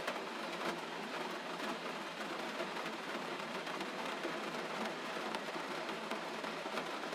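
Steady gentle rain falling, with scattered small drop ticks over an even hiss.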